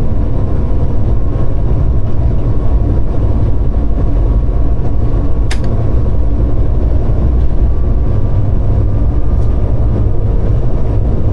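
Steady, loud rumble of a diesel locomotive running, heard inside its cab, with a faint steady hum over it and a single sharp click about five and a half seconds in.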